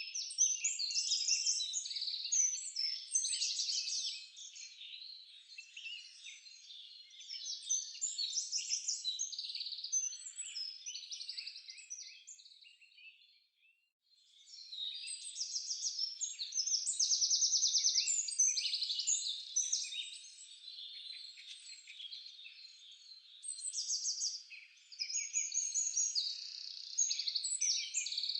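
Several songbirds singing and chirping over one another in a dense, high-pitched chorus of quick trills and twitters. It stops for about half a second near the middle, then resumes.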